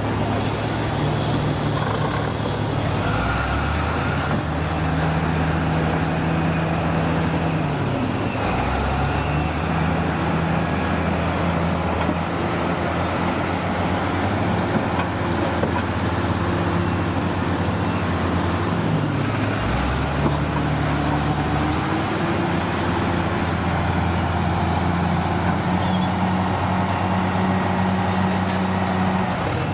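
Heavy diesel engine of a vintage truck or construction machine running under work, its pitch stepping up and down several times as the revs change.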